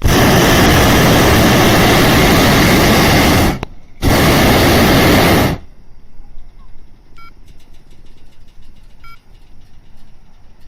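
Hot air balloon's propane burner firing in two loud blasts of rushing flame, a long one of about three and a half seconds, then after a short pause one of about a second and a half. Each starts and stops abruptly. The burner is heating the air in the envelope to make the balloon climb.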